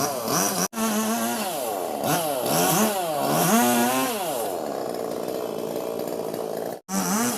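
Robin Plus chainsaw engine revving up and down several times, its pitch climbing and falling in quick surges. The sound drops out abruptly twice, briefly, about a second in and near the end.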